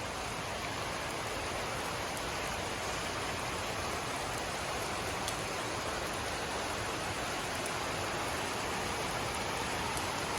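Steady rainfall: an even, unbroken hiss with a few faint ticks of single drops.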